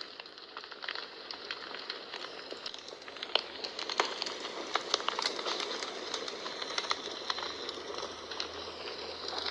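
Wood fire burning in a fireplace: a steady hiss with frequent irregular crackles and sharp pops.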